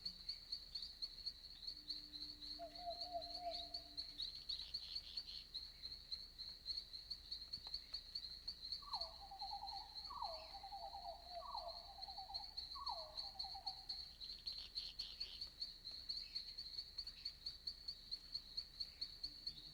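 Crickets chirping steadily at night in a high, continuous pulsing chorus. A few lower pulsed animal calls come over them, a short one about three seconds in and four in a row, each dropping in pitch, from about nine to thirteen seconds in.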